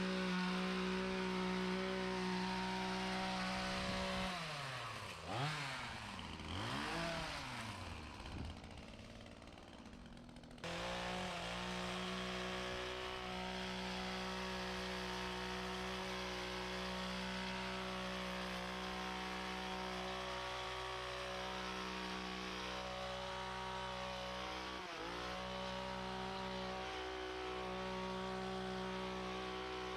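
Gas-powered leaf blower engine running steadily at high throttle. About four seconds in the pitch drops and swings up and down for several seconds, then it snaps back to full speed at about ten and a half seconds and runs steadily again.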